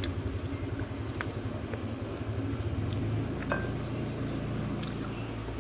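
Tableware clinking a few times, sharp separate clicks over a steady low rumble.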